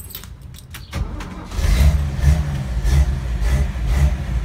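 1968 Toyota Land Cruiser FJ40's 3.9-litre F inline-six being started: a few clicks, then about a second in the starter turns it over and it catches, running with a slightly wavering pitch as it settles into a fast idle.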